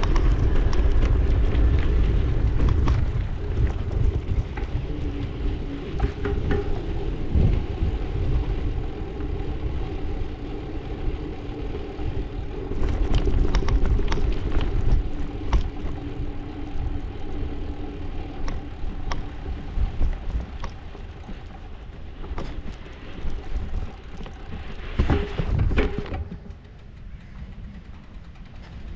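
Riding along a road: low wind rumble and road noise with a steady engine hum that fades out about 20 seconds in, and scattered clicks and knocks. It gets quieter near the end.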